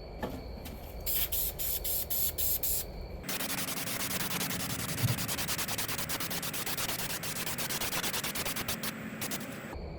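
Paint being sprayed: several short hisses in quick succession, then one steady hiss lasting about six seconds that stops near the end.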